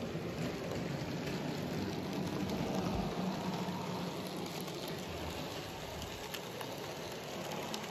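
N gauge model train running on the layout's track: a steady whirr with faint intermittent clicks.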